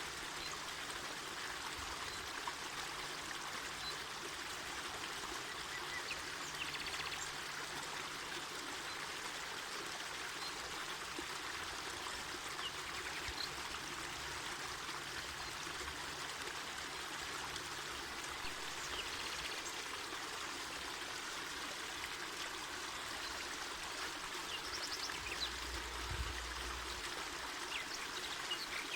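Mountain river flowing steadily over rocks, an even rushing and trickling of water. A brief low rumble comes near the end.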